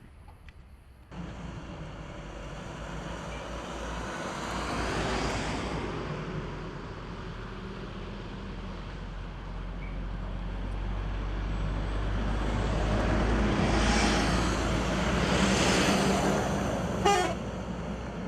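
Road traffic: a steady engine hum with vehicles passing twice, and a short horn toot near the end.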